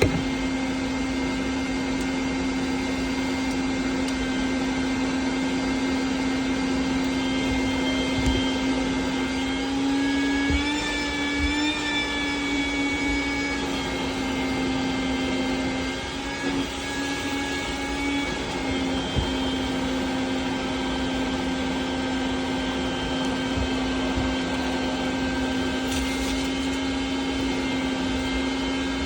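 Vacuum cleaner running steadily, its motor pitch rising slightly for several seconds about a third of the way in before settling back, with a few light clicks.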